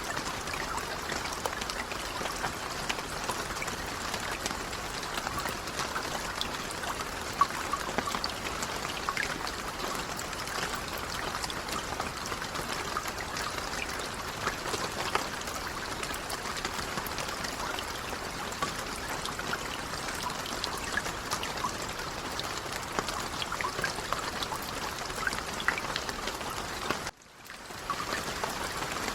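Light rain falling: a steady patter of many small drops. It cuts out briefly near the end and fades back in.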